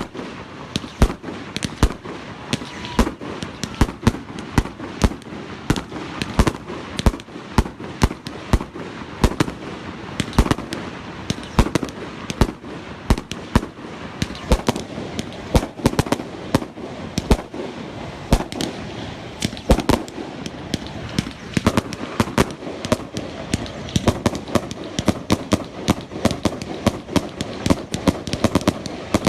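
Fireworks going off in a dense, continuous barrage: many sharp bangs, several a second, over a steady crackle, sounding like gunfire.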